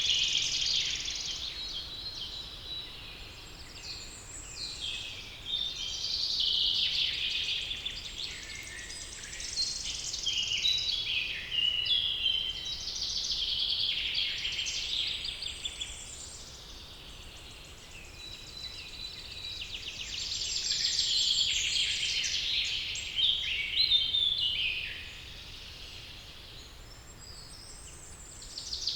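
Several songbirds singing at once in a dense, overlapping chorus of high, rapid phrases, easing off briefly twice.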